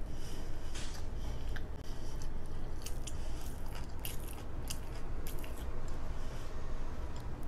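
Close-miked chewing of a mouthful of crispy fried chicken sandwich, with scattered small crunches and wet mouth clicks over a steady low background hum.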